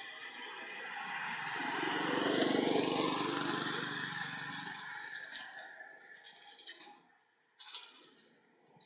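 A motor vehicle passing by: its engine sound rises to a peak about two and a half seconds in and then fades away. Brief sharp scraping clicks follow near the end.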